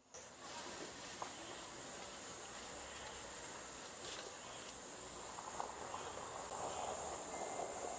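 Steady high-pitched insect chorus, a continuous shrill drone of summer insects, over a soft outdoor background hiss.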